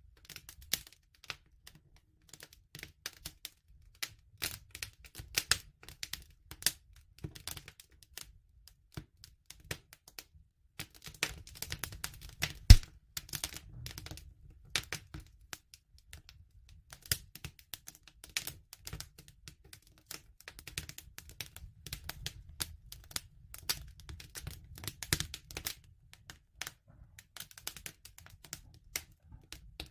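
Wood fire crackling: irregular pops and snaps of burning wood over a low rumble, with one sharp, much louder pop about halfway through.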